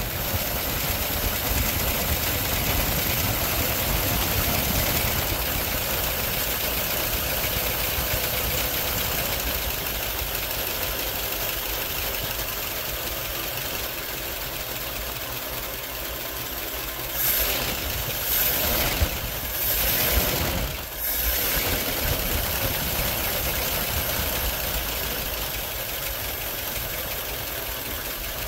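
Carburetted 1970s Ford engine in a Mercury running right after its first start in about 20 years, the throttle worked by hand at the carburettor, while the starter is kept cranking as it runs. A few louder bursts about two-thirds of the way through.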